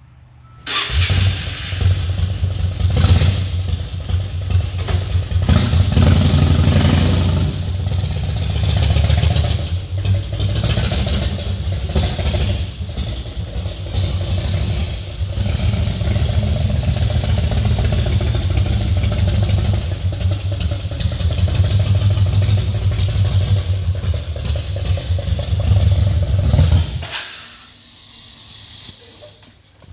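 2002 Yamaha XV1600 Road Star's air-cooled V-twin engine running, rising and falling in level a few times. It comes on just under a second in and stops near the end.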